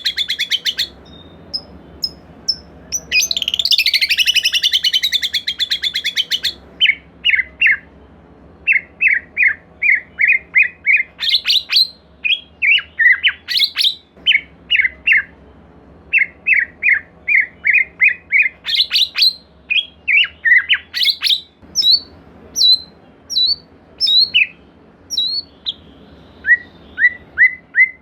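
White-rumped shama (murai batu) singing. It opens with two fast, harsh rattling chatters, then gives runs of five or six short, quick falling whistled notes, broken by occasional sharper high notes.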